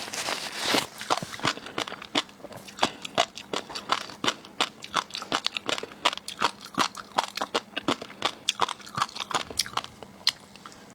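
Close-miked ASMR chewing of seafood. A dense crunchy rustle in the first second or so gives way to a run of sharp, irregular wet clicks and crunches.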